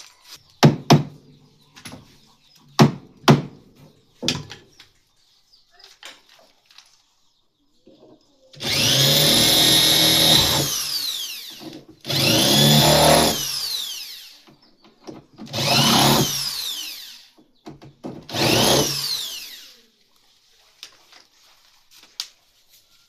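A handheld electric power tool run in four bursts of about two seconds each, its motor whining down in pitch after each release of the trigger. A few sharp knocks come before the first run.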